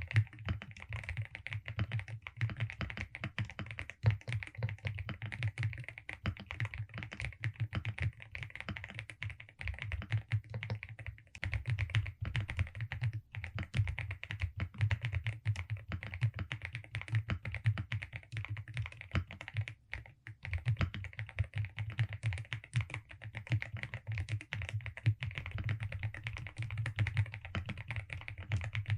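Continuous fast typing on a Velocifire RX870 mechanical keyboard with DSA keycaps: a dense run of keystroke clacks, with a short pause about a third of the way in and another about two thirds in.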